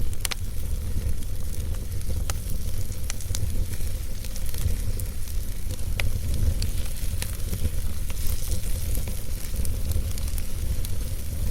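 Wood fire burning in a fireplace: a steady low rumble of flames with scattered sharp crackles and pops, the loudest just after the start and about six seconds in.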